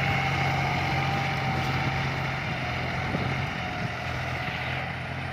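John Deere tractor diesel engines working under load, pulling six-disc ploughs: a steady engine drone that fades a little after about three and a half seconds.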